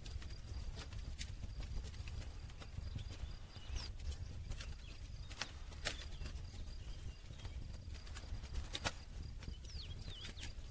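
Wood campfire crackling, with sharp irregular pops over a low steady rumble. A few faint high chirps near the end.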